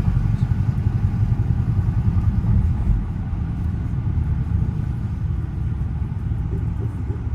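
Dodge Charger R/T's 5.7-litre Hemi V8 rumbling steadily at low revs, easing a little about three seconds in.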